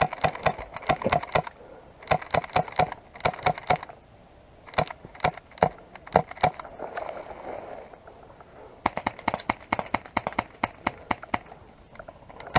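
Airsoft guns firing in repeated bursts of rapid, sharp clicking shots, with short lulls between bursts and a long fast run near the end.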